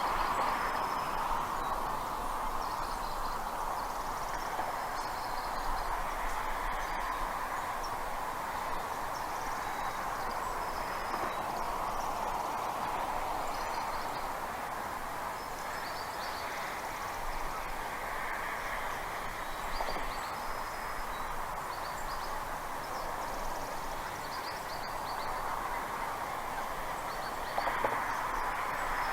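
Steady rushing background noise, with short, high bird chirps scattered every few seconds.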